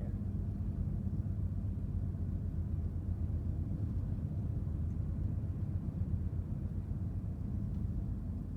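Steady low rumble of a Ford car on the move, heard from inside the cabin: engine and road noise.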